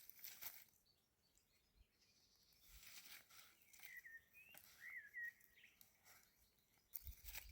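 Near silence outdoors, broken by a bird giving a few short, faint chirps about four to five seconds in. There is soft rustling near the start and the end.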